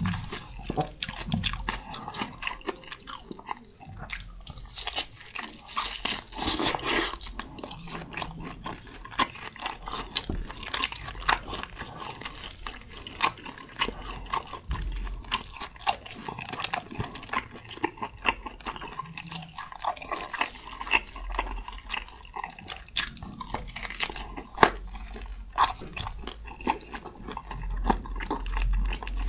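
Close-miked chewing and biting of tomahawk steak, with many short wet mouth clicks and crackles as the meat is torn from the bone and chewed.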